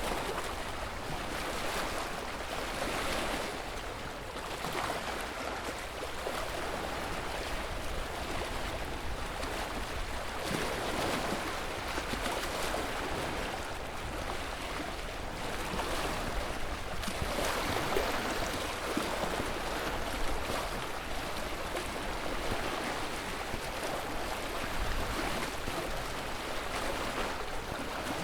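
Ocean surf: waves washing in and out, a continuous rushing noise that swells and eases every several seconds.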